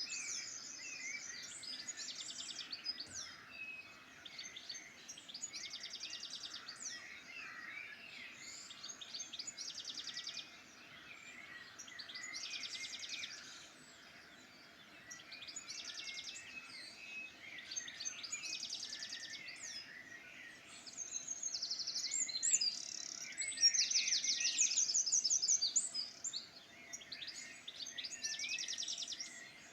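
Songbirds singing in a dawn-chorus style: one bird repeats a short, fast, high trill every two to three seconds over scattered chirps from others, loudest a little after the middle. A faint steady hum sits underneath.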